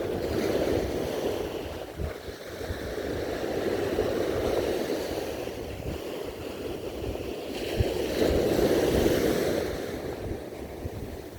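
Sea waves breaking and washing up the beach, the rush swelling three times, about every four seconds. Wind rumbles on the microphone underneath.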